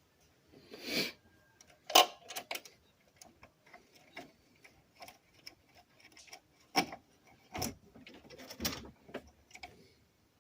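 Irregular clicks, clinks and knocks of hand tools and metal parts being handled while parts are unbolted from a golf cart engine, with a short scrape about a second in and a few sharper knocks.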